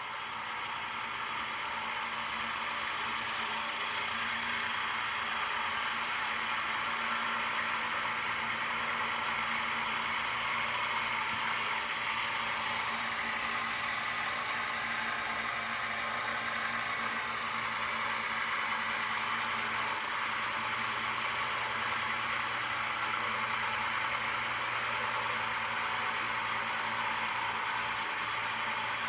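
Machinery running steadily at a coolant tank with a tramp oil skimmer: a low, even hum under a constant hiss, with no change throughout.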